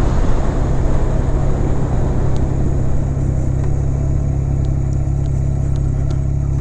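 Honda Rebel 250's parallel-twin engine running steadily as the bike slows. Wind rush on the microphone dies down over the second half, leaving a steady low engine hum.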